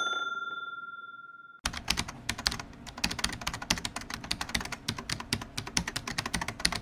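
A single bell-like ding rings and fades away over about a second and a half, then a fast, dense run of sharp clicks starts, like keys being typed.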